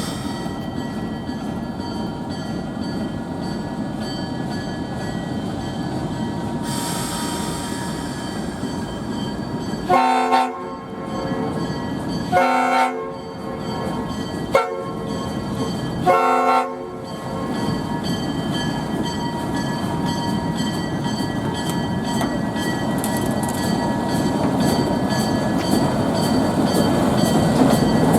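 ALCO RS-1 diesel locomotive sounding its five-chime Nathan S5T horn in the grade-crossing signal, long, long, short, long, about ten seconds in. Its diesel engine runs underneath and grows louder toward the end as it nears.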